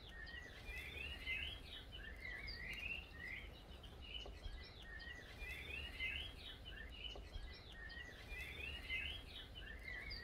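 Faint birdsong of small birds: short chirping phrases repeating every second or so, over a low steady outdoor rumble.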